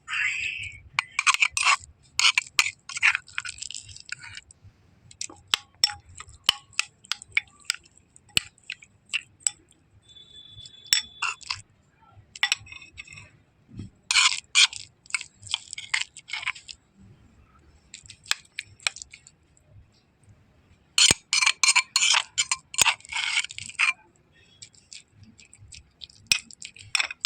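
Metal utensils clinking and scraping in repeated bouts: sharp clicks with scraping runs of a second or two, the loudest bouts near the start, in the middle and a few seconds before the end.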